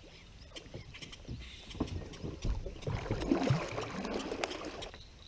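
Water splashing and sloshing around a kayak, with scattered light knocks and clicks on the hull and gear, busiest about three seconds in.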